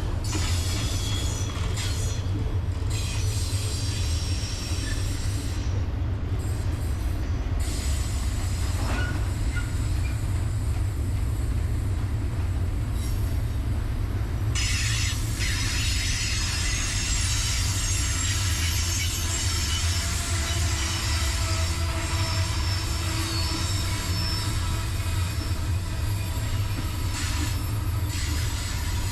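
Freight train of double-stack container cars rolling past with a steady low rumble of wheels on rail and high-pitched wheel squeal, the squeal louder in the second half.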